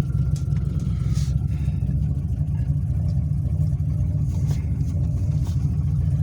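Turbocharged, cammed GM 5.3 V8 idling just after a cold start with no throttle, a steady low rumble with a choppy, uneven beat. It runs cleanly, having caught straight away after sitting a while.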